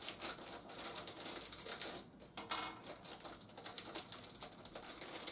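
Plastic toy parts being handled: light, irregular clicking and rustling.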